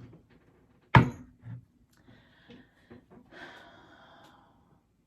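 A single sharp knock about a second in, followed by a softer thump and some faint rustling.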